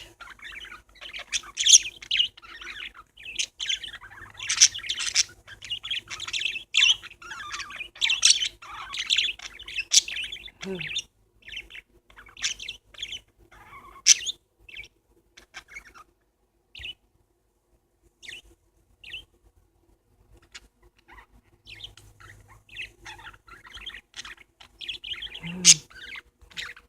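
Pet parakeets chattering and chirping, a dense run of quick high chirps that thins out about halfway through to a few scattered calls, then picks up again near the end.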